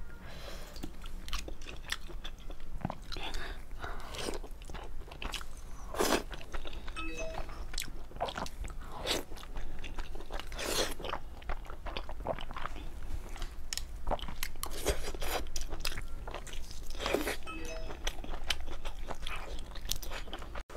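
Close-miked biting and chewing of braised pork belly: a steady run of short, sharp mouth sounds and crunches.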